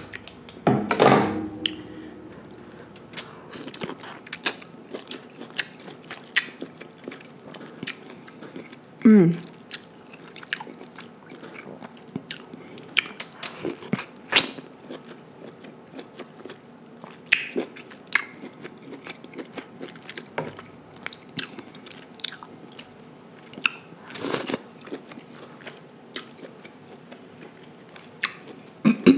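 Close-miked chewing and wet mouth sounds of someone eating boiled king crab leg meat dipped in butter sauce: many short sharp smacks and clicks.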